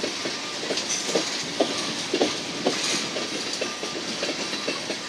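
Freight cars of a mixed freight train rolling slowly past, with a steady rushing of wheels on rail broken by short, irregular knocks and clanks about every half second.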